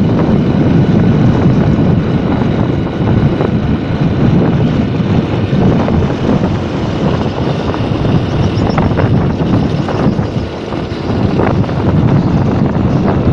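Motorcycle riding along, its engine and the wind rushing over the mounted microphone making a loud, steady rumble that eases briefly about ten seconds in.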